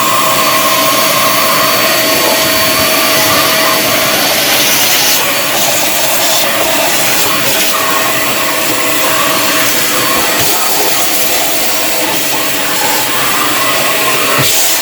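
A 1200 W ash vacuum cleaner running steadily at full suction: a motor whine over a loud hiss of rushing air as it sucks up machining chips from a CNC machine.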